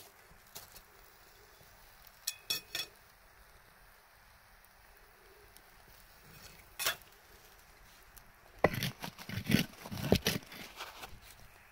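Irregular knocks and clatters of objects being handled: three quick knocks a couple of seconds in, a single one past the middle, and a busier run of louder knocks near the end.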